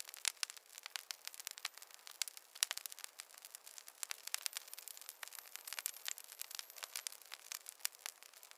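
Wood fire in a fireplace crackling: a dense, irregular run of sharp pops and snaps over a soft hiss.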